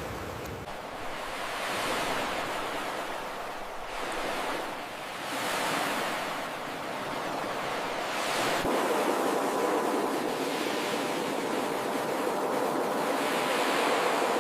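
Ocean surf: waves breaking and washing up the shore in swells a few seconds apart, turning into a steadier, louder wash about halfway through.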